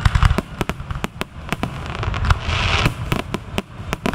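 Aerial fireworks shells bursting in quick succession: a rapid, irregular string of sharp bangs and cracks over a low rumble, with a brief hiss about halfway through.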